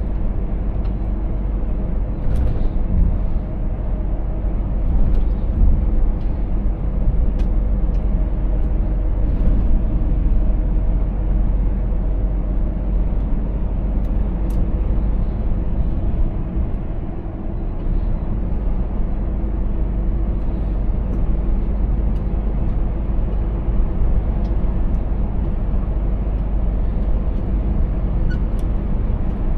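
Scania S 500 truck's diesel engine running steadily while driving, with a strong low rumble and road noise.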